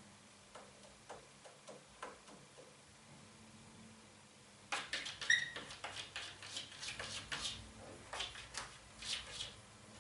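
Tapping and scratching on a window pane: a few light taps at first, then from about halfway a dense run of sharp scratchy clicks with one brief squeak.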